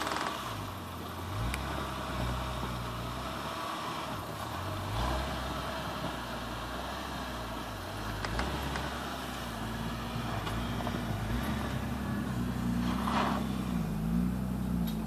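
Nissan GT-R's twin-turbo V6 engine revving up and down repeatedly as the car drives out through deep snow, pitching higher and wavering in the last few seconds.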